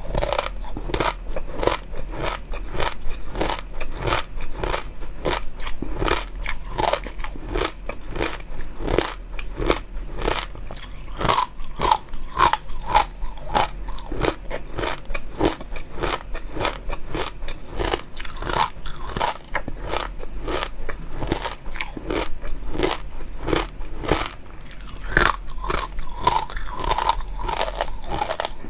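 Close-miked eating sounds: steady chewing and crunching, with a quick run of crisp, crackling clicks.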